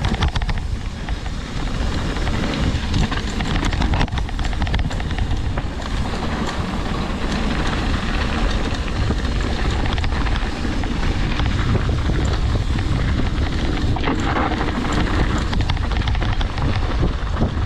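Wind rushing over the microphone while a mountain bike rides a dirt trail, with scattered clicks and knocks from the bike over rough ground.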